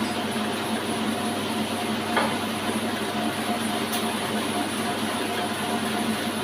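Horizontal log band sawmill running: a steady mechanical noise with an even hum and a faint click about two seconds in.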